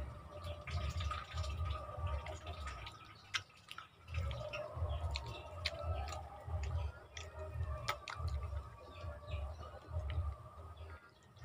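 Close-miked eating: wet chewing of soft vinegar-stewed milkfish and rice, with quick clusters of low mouth thuds and many sharp wet clicks and smacks.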